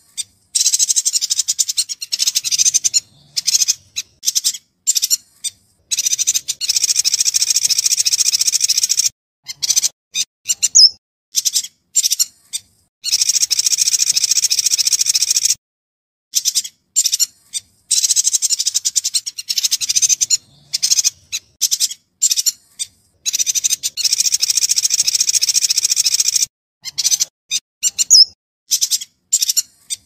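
Yuhina singing in a birdkeepers' master recording: clear bursts of rapid high chirps and trills, some runs lasting a few seconds, separated by clean short pauses. The phrase sequence repeats about halfway through.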